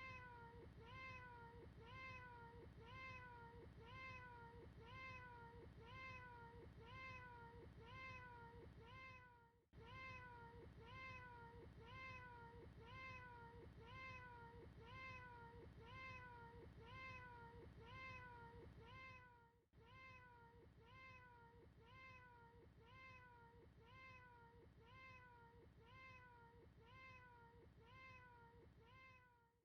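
A short cat meow played in a loop, repeating about one and a half times a second, faint throughout, with a brief break about every ten seconds where the loop restarts.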